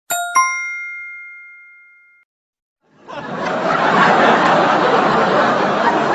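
Two quick bell strikes, ding-ding, ringing and fading over about two seconds. After a short silence, a crowd of people chattering fades in about three seconds in.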